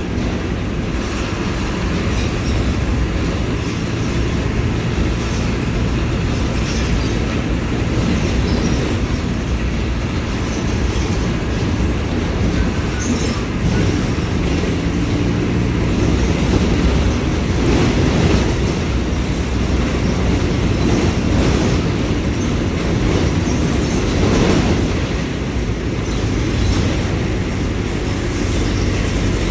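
Diesel engine of a Mercedes-Benz OF-1721 BlueTec 5 bus running as the bus drives, a steady low rumble that swells and eases a little in level.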